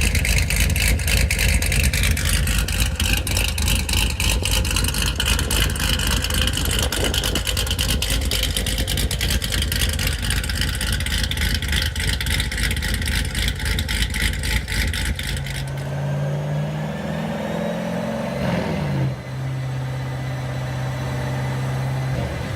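C7 Corvette V8 running hard, with a dense, rough exhaust note. About three quarters of the way through it changes abruptly to a steady idle with one short rev that rises and falls back.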